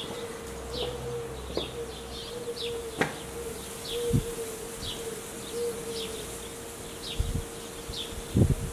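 A small bird chirping over and over, short high chirps that fall in pitch about every half second, over a steady buzzing hum. A few soft low thumps come near the middle and near the end.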